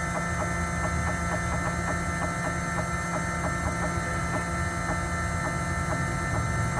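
Small CNC cutting machine's spindle motor running with a steady hum, with light regular ticks about three a second as the cutter is lowered step by step toward the chip's surface.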